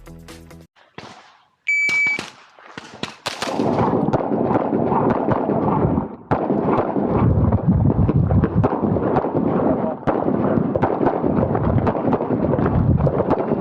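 An electronic shot timer gives a short, high start beep, and then handgun shots follow in rapid strings, nearly continuous, with brief breaks about 6 s and 10 s in that fit magazine changes or moves between positions.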